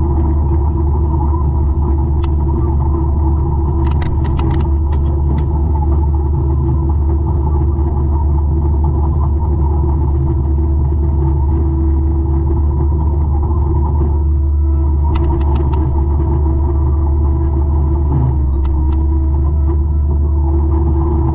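200-horsepower forestry mulcher running steadily: a loud low engine drone with a steady hum above it. Short bursts of clicking come about four seconds in and again about fifteen seconds in.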